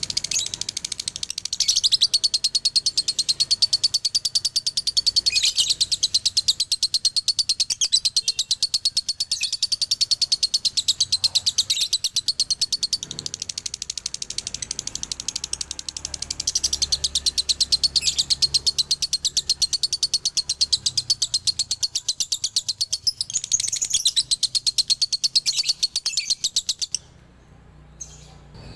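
Male lovebird singing its long ngekek chatter: an unbroken run of rapid, high-pitched chirps, many a second, kept up for over twenty seconds and cutting off abruptly near the end.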